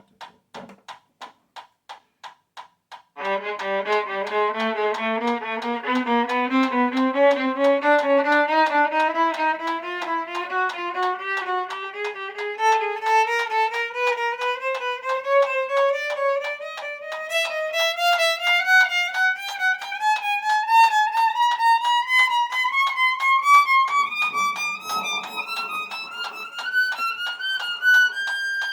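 Metronome ticking at 178 beats a minute, about three clicks a second. About three seconds in a violin joins, playing triplets against the beat in a long run of short notes that climbs steadily from low on the instrument to high up.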